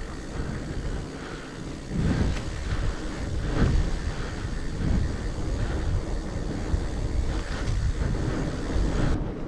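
Wind buffeting the microphone, with a low rumble as a fat bike is ridden over rough ground; the noise swells and eases a few times.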